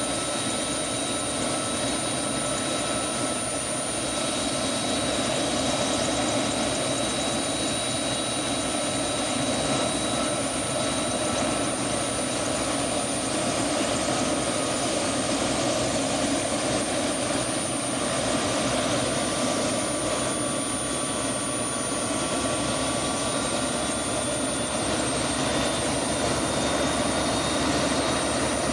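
Turbine helicopter running steadily: a high, even turbine whine over the dense rush of the rotor.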